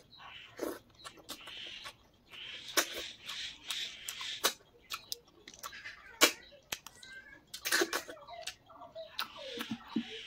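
Close-up eating sounds: chewing and mouth smacks, with many short sharp clicks and patches of wet, hissy mouth noise.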